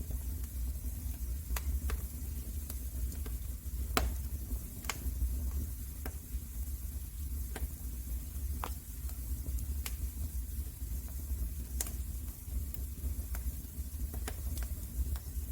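Wood fire in a fireplace crackling: irregular sharp pops and snaps, roughly one every second or less, over a steady low rumble.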